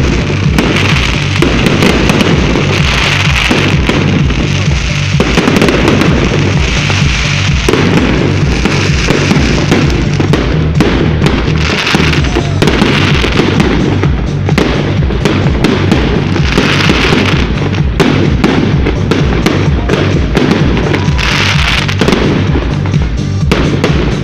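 Fireworks going off in rapid bangs and crackles, heard together with music that has a steady beat.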